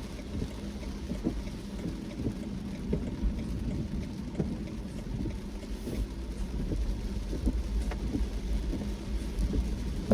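Car driving in the rain: a steady low rumble of road and engine, with scattered light taps of raindrops.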